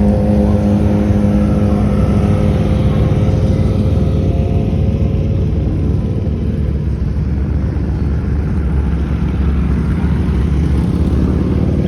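Engine of a 26-foot cuddy cabin boat running steadily under way, a loud low drone with water and wind noise. A higher hum over the drone fades out about halfway through.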